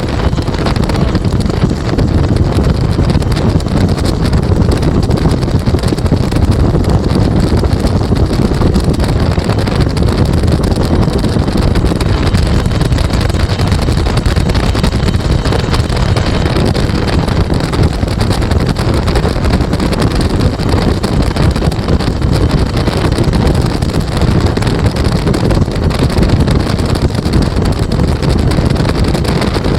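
Bell UH-1 Huey helicopter's turbine engine and two-blade rotor running steadily at close range, loud and unbroken, with wind buffeting the microphone at the open gunner's seat.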